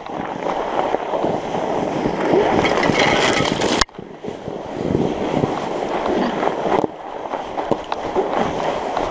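Fat bike tyres rolling over frozen, snowy ground: a steady rolling rumble with wind on the microphone. It cuts off abruptly a little under four seconds in, then picks up again.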